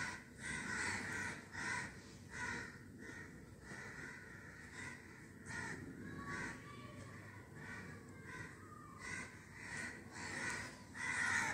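Faint bird calls, repeated every second or so.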